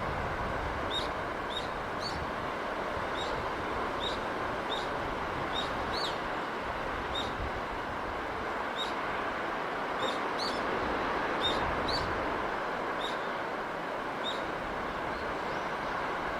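Steady rush of sea surf and wind, with a small bird giving short high chirps about once a second.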